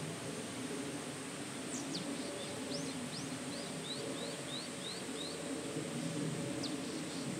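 A small bird calling a quick run of short, high chirps, about three a second, through the middle, then a single chirp near the end, over a steady low background rumble.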